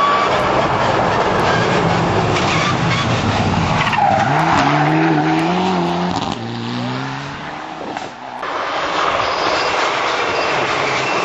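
Rally car sliding through a hairpin with its tyres skidding, the engine revving up in rising steps from about four seconds in as it powers out, with a short lull a little before eight seconds before the noise picks up again.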